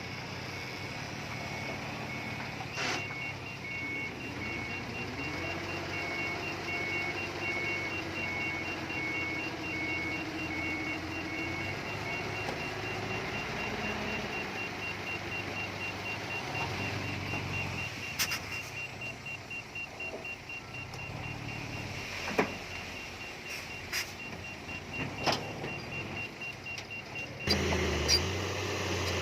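Heavy earthmoving machinery running steadily with reversing alarms beeping: one beeper pulses until about halfway, and a second, faster-pulsing one carries on almost to the end. A few sharp metallic clanks come in the second half.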